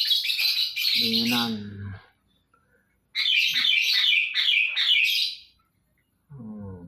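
Small songbirds chirping in quick runs of high notes: one burst at the start, then a longer run of rapid repeated chirps from about three seconds in. The birds are still cold and huddled after a night of rain.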